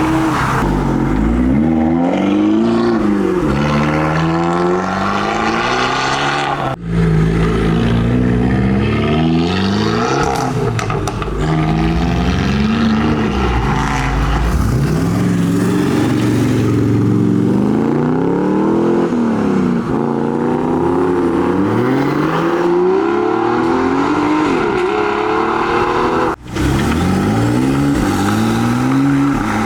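High-performance car engines revving and accelerating away one after another, the pitch climbing and dropping again with each blip and gear change. The sound breaks off abruptly twice, about 7 s and 26 s in, as one car gives way to the next.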